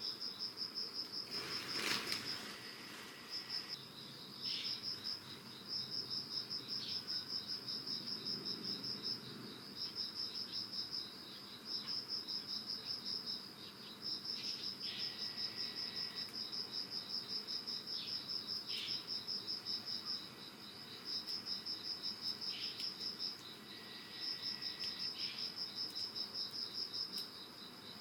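Early-autumn insects trilling: a high, fast-pulsing trill that comes in bouts of a few seconds, separated by brief pauses. A few short high chirps sound over it, and there is a brief rustle about two seconds in.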